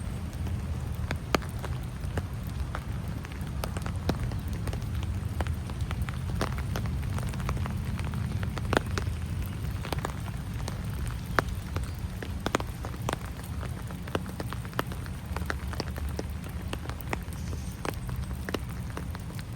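Rain falling, with many separate drops ticking sharply close by, over a steady low rumble.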